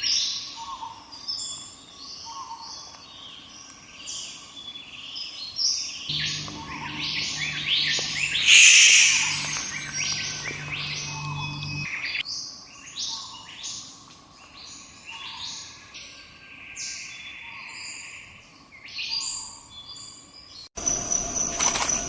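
Many small birds chirping and chattering at once in a busy chorus of short, overlapping notes, with a loud harsh burst of calls about nine seconds in. Near the end the sound cuts abruptly to a steady high-pitched whine.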